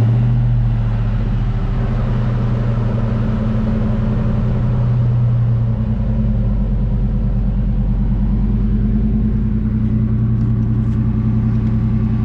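Car's V6 engine running at a steady idle just after a cold start.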